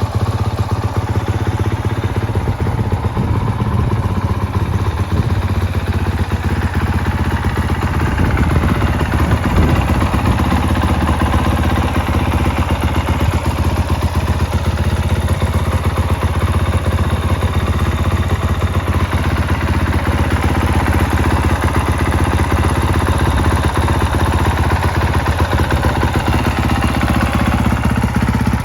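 2021 Honda CRF450R's single-cylinder four-stroke engine idling steadily through its muffler, with a slight swell in level about nine seconds in.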